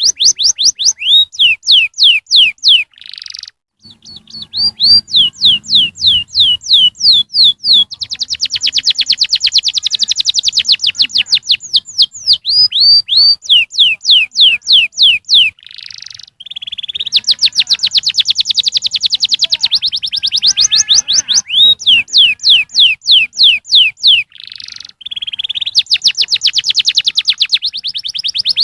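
Canary singing loudly in long phrases of fast trills. Each trill is a quick run of repeated downward-sweeping whistled notes, and the phrases are broken by brief pauses a few times.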